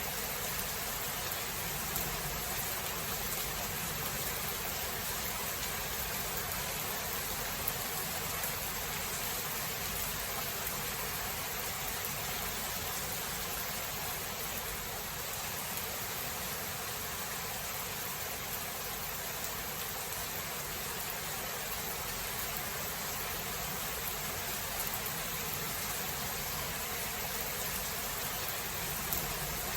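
Steady rain falling, an even hiss with a few faint drop ticks; no thunder is heard.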